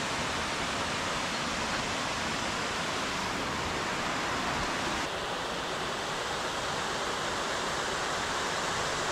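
Steady rush of water from the Duden waterfall and river, an even noise with no pauses. Its tone shifts slightly about five seconds in.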